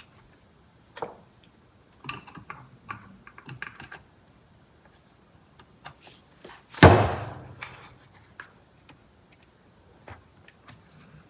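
Small clicks and plastic rattles of steering wheel parts and wiring connectors being handled. There is one loud thunk about seven seconds in.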